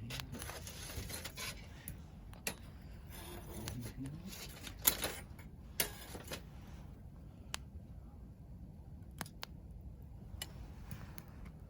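Newly lit wood fire crackling, with sharp irregular pops over a soft hiss of burning, the loudest pop about five seconds in.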